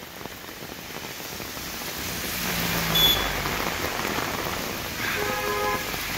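Heavy rain pouring steadily, growing louder through the first half. A brief sharp knock comes about three seconds in, and a short pitched sound about five seconds in.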